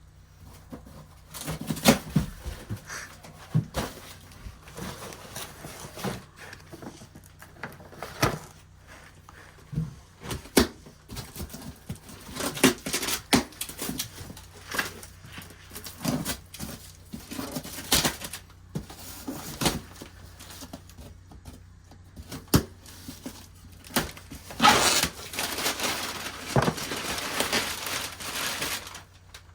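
Rummaging through boxes of stored items: scattered knocks and clatters as objects are picked up and set down, with a longer stretch of rustling near the end.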